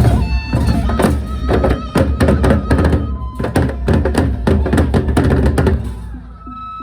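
Loud music from a Sasak nyongkolan procession band, with repeated drum strokes over heavy bass. It breaks off about six seconds in, leaving a faint steady tone.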